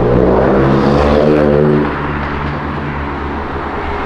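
Porsche 911 GT3 RS's 4.0-litre flat-six engine running close by. It is louder for about the first two seconds, then drops back to steadier, quieter running.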